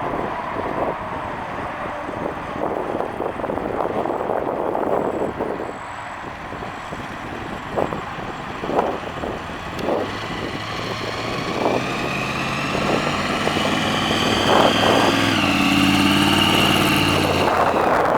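A car engine running, uneven at first, then settling into a steady hum about halfway through with a high whine that rises slightly.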